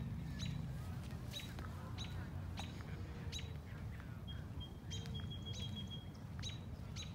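A small songbird calling in a run of short, sharp, high chirps, about one and a half a second, with a thin high whistle held for about two seconds midway. Underneath runs a steady low rumble.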